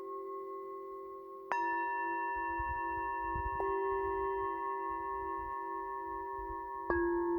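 Singing bowls struck three times, about a second and a half in, midway and near the end, each strike setting off new ringing tones that hang on over the notes still sounding.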